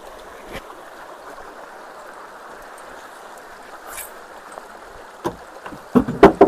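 Ditch water rushing steadily through freshly unclogged concrete culverts, with a few sudden loud thumps or splashes near the end.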